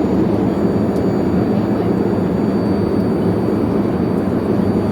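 Steady in-flight cabin noise of an Airbus A350-900 in flight: a loud, even, low rushing hum of airflow and engines, with a faint steady high whine above it.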